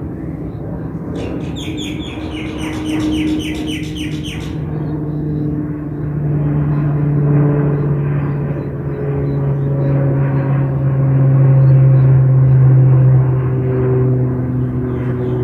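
An aircraft passing, its engine drone made of a strong low hum with higher tones that slide slowly in pitch, building to its loudest about three-quarters of the way through. A bird chirps rapidly for a few seconds near the start.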